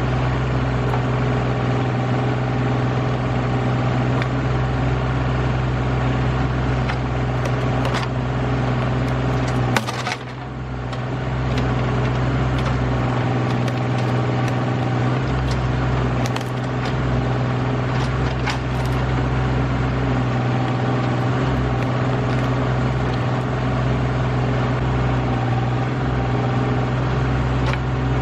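RK25 subcompact tractor's engine running steadily under backhoe work, digging dirt from around a stump, with scattered clicks and knocks. A sharp knock comes about ten seconds in, and the engine sound dips for a moment after it.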